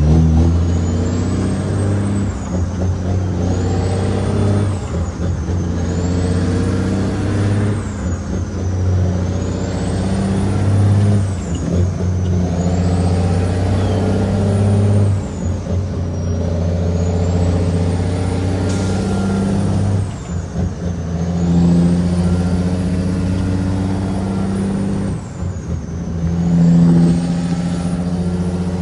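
Caterpillar 6NZ inline-six diesel in a loaded Kenworth W900L tractor-trailer, running under load; the engine note dips and picks up again several times, as with shifts of its 18-speed transmission.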